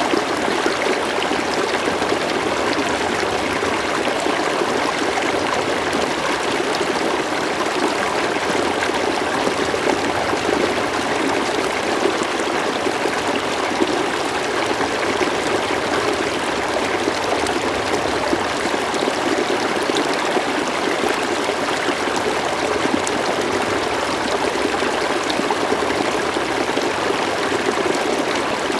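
A slow-flowing river: steady, even running water with no breaks or changes.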